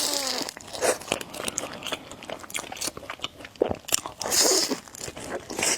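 Close-miked eating of spicy noodles: wet chewing clicks and mouth sounds, with a longer hissing slurp about four seconds in.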